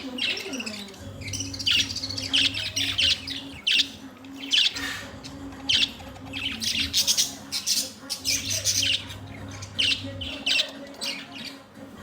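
Budgerigars chirping: many short, high calls in quick, overlapping succession, over a low steady hum.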